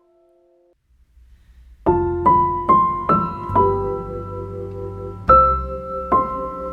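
Slow, gentle piano music: after a brief near-silence, single piano notes begin about two seconds in, several struck in quick succession and left to ring.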